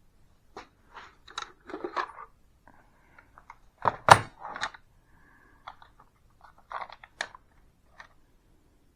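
Clicks, clinks and knocks of a metal hole saw and hand tools being handled at a workbench, with one sharp knock about four seconds in.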